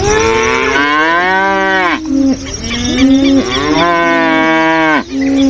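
Cow mooing: two long moos, one after the other.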